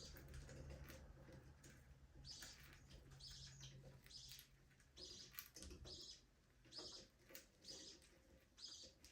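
Budgerigars chirping softly in short, high chirps, about one a second, with a faint low hum underneath during the first half.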